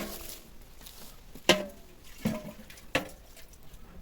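Four short, sharp knocks spaced roughly a second apart, each with a brief ringing tail. The loudest comes about a second and a half in.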